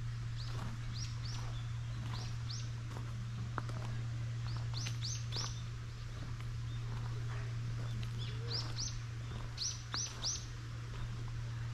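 Small birds chirping in short, high, falling notes that come in quick clusters of two or three, several times, over a steady low hum.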